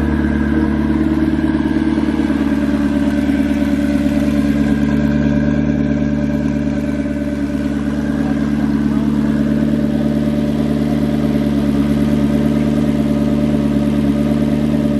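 McLaren sports car's engine idling steadily.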